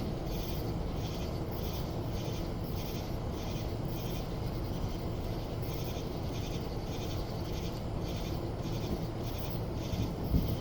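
Steady rainfall, with a high rhythmic pulsing about two to three times a second running over it.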